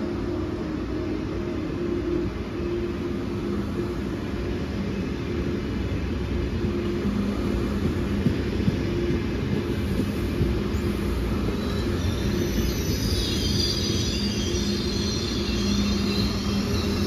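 Frecciarossa high-speed electric train rolling slowly along the platform: a steady rumble of wheels on rail with a low electrical hum, and a high metallic squeal from the wheels joining in about two-thirds of the way through.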